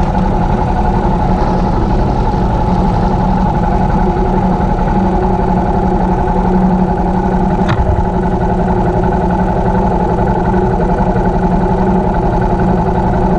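Yamaha XT660R single-cylinder engine with an open exhaust running steadily at constant revs, with no revving up or down. There is one short click just over halfway through.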